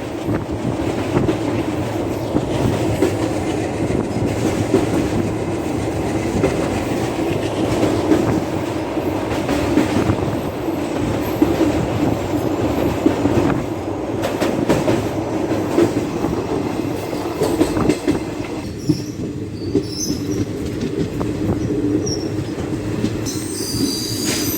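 DEMU passenger train running along the track: a steady rumble of wheels on rail with repeated clicks from the rail joints. The upper hiss thins about three quarters through, and high thin ringing tones come in near the end.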